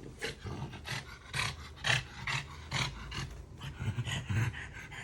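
French bulldog breathing hard in short, noisy breaths, about two a second, as it tires.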